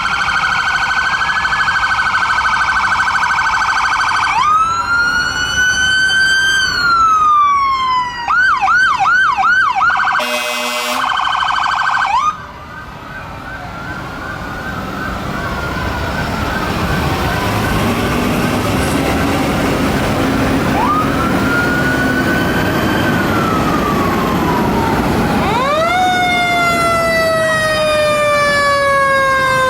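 Fire truck sirens: wailing sirens rising and falling, a fast yelp about eight seconds in, then a short steady horn blast. Near the end a siren winds up sharply and slowly falls in pitch.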